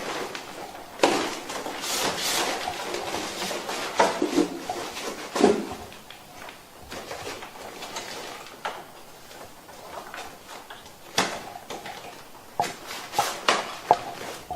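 Rustling, scraping and light knocking of a waterproof cleaning cover being stretched and fitted over a wall-mounted air conditioner indoor unit, in irregular bursts with several sharp clicks near the end.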